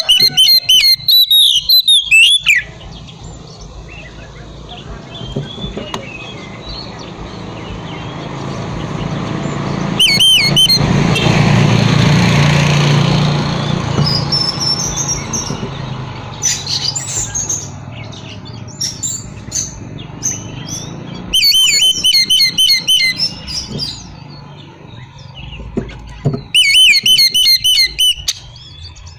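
Oriental magpie-robin (kacer) singing: loud bursts of fast, repeated high chirping notes, broken by softer varied whistles. Midway a low rushing noise swells and fades under the song.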